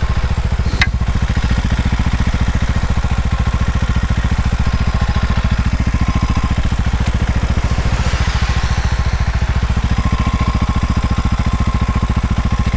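Small Herald motorcycle's engine running steadily under way, with an even low pulsing beat. There is a sharp click about a second in and a swell of hiss around eight seconds in.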